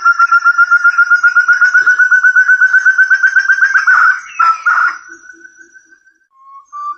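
Forest partridge (puyuh hutan, burung terung) lure call: a fast run of clear whistled notes, about ten a second, rising slightly in pitch. It breaks off about four seconds in and gives way to a fainter rising whistle, then the series starts again near the end.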